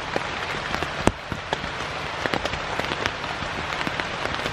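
Heavy rain falling on a tent: a steady hiss broken by many sharp individual drop hits on the fabric.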